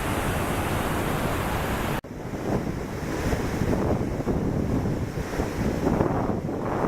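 Rushing water of a waterfall, an even, steady noise. About two seconds in it cuts abruptly to another take of rushing water, with wind gusting on the microphone.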